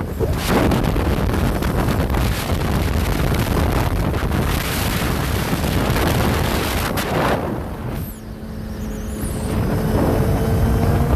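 Heavy wind rushing over the microphone of a motorcycle at riding speed, with engine and road noise underneath. About eight seconds in the wind eases briefly and a steady engine tone comes through.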